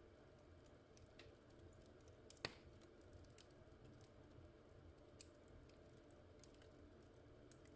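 Near silence: quiet room tone with faint scattered clicks, and one sharper click about two and a half seconds in.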